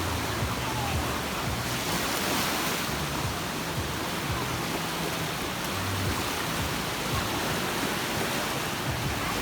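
Sea waves washing on a beach: a steady hiss of surf, swelling with a louder wash about two seconds in.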